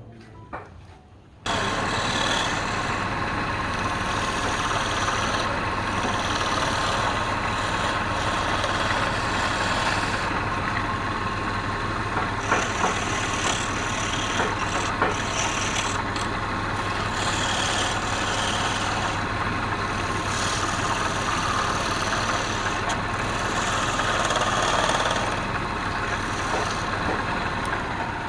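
An electric workshop machine switches on sharply about a second and a half in and runs steadily with a constant hum, with a few brief sharper sounds midway through.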